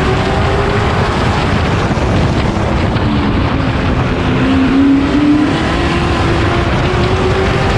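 Pro Truck race engine running hard, heard on board. Its pitch sinks as it comes off the throttle in the middle, then climbs again as it drives back onto the power.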